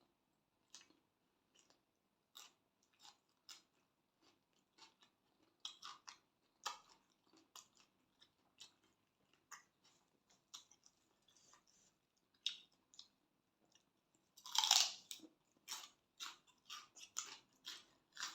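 Close-up chewing and biting of a mouthful of spicy glass-noodle salad with shrimp and pork sausage: irregular wet smacks and soft crunches, with one louder burst about three-quarters of the way through.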